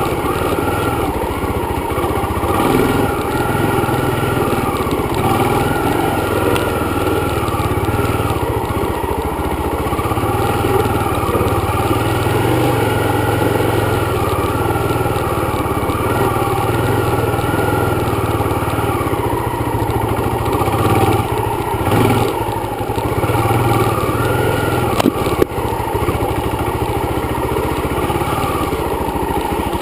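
Dirt bike engine running steadily at riding speed, with a small rise in revs a little past the middle. A single sharp click or knock cuts through near the end.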